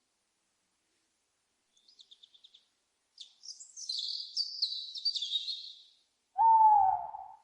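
Small birds twittering with quick high chirps, followed near the end by one loud owl hoot that slides down in pitch at its close.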